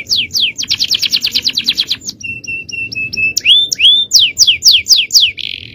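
Male canary singing in rapid tours of repeated syllables: falling whistled sweeps, a very fast trill, a short run of level chirps, then more sweeps and a buzzy rolling trill near the end.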